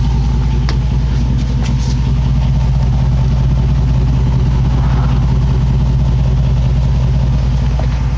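2006 Jeep Grand Cherokee's 5.7 Hemi V8 idling through a Magnaflow straight-through muffler with the resonator deleted. The exhaust note is low, even and steady, with no revving.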